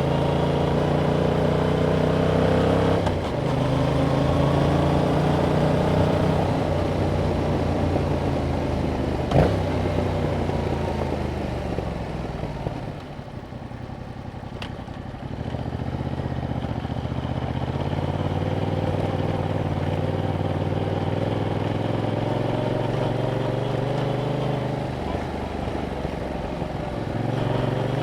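Yamaha MT-07's 689 cc parallel-twin engine running through its stock exhaust while being ridden, its pitch stepping and gliding with the throttle and a gear change about three seconds in. A sharp click comes about a third of the way through, and around the middle the engine drops off for a couple of seconds before pulling again.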